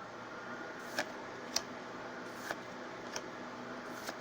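Trading cards being flicked through one at a time, each flip making a sharp snap, about five in all at uneven intervals, over a steady hiss.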